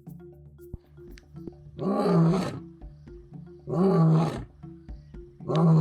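Male African lion roaring: three short, loud calls about two seconds apart.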